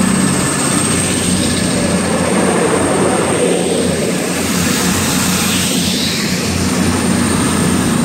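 Class 221 Super Voyager diesel-electric unit pulling out, its underfloor diesel engines running hard under power in a loud, steady drone.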